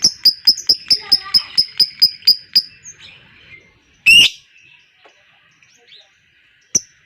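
Lovebird 'ngekek' chatter: a fast run of sharp high chirps, about five a second, that fades out about two and a half seconds in. A single loud harsh squawk comes about four seconds in.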